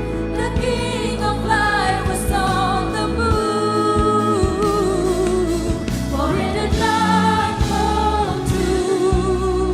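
Worship band and singers performing a gospel-style worship song: several voices singing held, wavering notes over the band's accompaniment.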